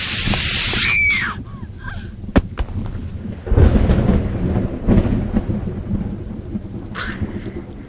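Horror sound-effect track: a loud hissing burst with a falling shriek at the start, a sharp crack, then a deep rolling rumble from about three and a half seconds in that slowly fades, with a short hiss near the end.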